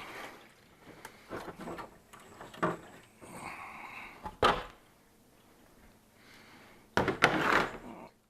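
Ice machine parts being pulled apart by hand: a string of clacks and knocks of plastic components, with a loud knock about four and a half seconds in and a burst of clattering near the end.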